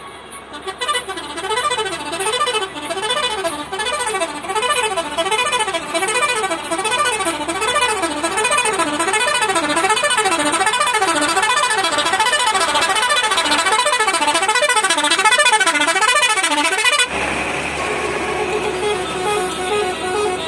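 Truck's electronic warbling horn sounding continuously, its pitch sweeping up and down a little more than once a second, then cutting off suddenly near the end. Vehicle noise continues after it stops.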